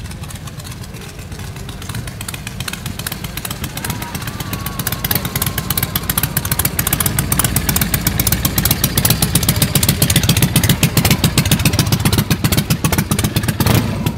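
Loud exhaust of a vehicle engine running with rapid, even firing pulses, growing louder as it comes closer. It falls away abruptly near the end.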